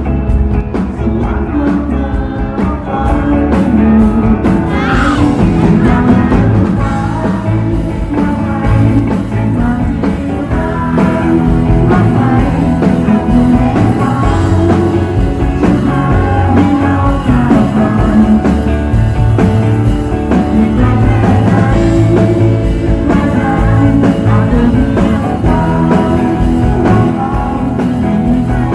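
Live rock band music with singing, guitars and a steady drum beat.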